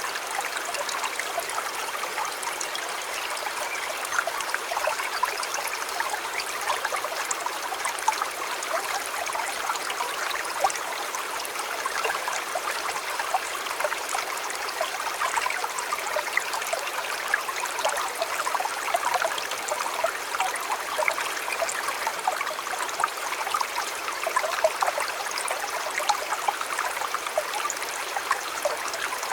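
Shallow river water flowing and babbling over stones, a steady rush with many small splashes and gurgles.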